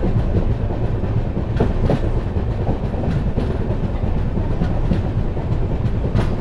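Passenger train running on the track, heard from a moving coach: a steady wheel-on-rail rumble with a few clacks as the wheels pass over rail joints.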